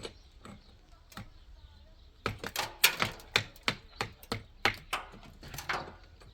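A run of sharp, hard knocks, about three a second, starting a little over two seconds in and stopping near the end, after a couple of scattered clicks.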